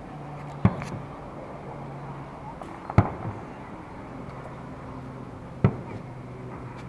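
Aerial fireworks shells bursting: three sharp booms about two and a half seconds apart.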